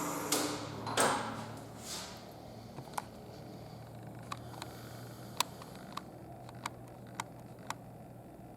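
Fiat Stilo 1.9 JTD diesel engine on a test stand shutting down, its noise dying away in the first second or two, followed by a low steady hum with scattered sharp ticks.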